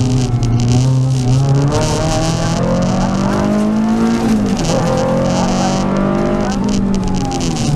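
Renault Clio Sport rally car's four-cylinder engine, heard from inside the cabin, driven hard. The revs hold steady, then climb for a couple of seconds, drop sharply at a gear change about four and a half seconds in, and climb again. Underneath is a steady hiss of tyres on the wet road.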